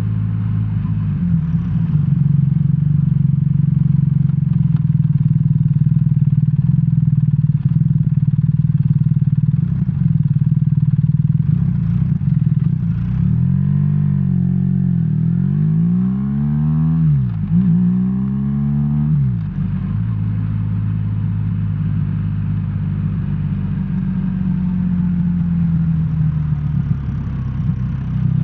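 BMW R1300R boxer-twin engine running under way at a steady pitch; about halfway through the revs rise and fall three times in quick succession, then it settles back to a steady run.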